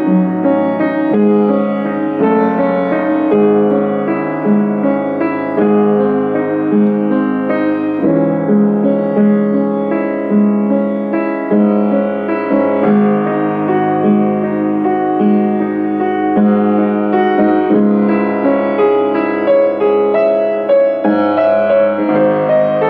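A piano playing a slow, gentle piece: chords with a low note struck about once a second under a melody.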